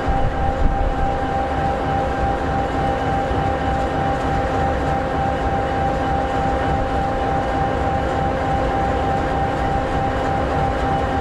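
EMD 16-710G3B sixteen-cylinder two-stroke diesel engine of an SD60E locomotive idling steadily: an even low drone with a steady whine over it.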